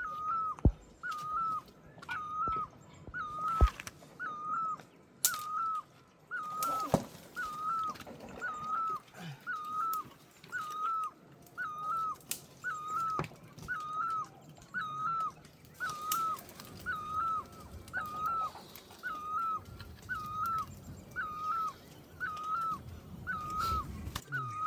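A bird repeating one short, hooked call about once a second, very evenly, with scattered sharp clicks or knocks in between.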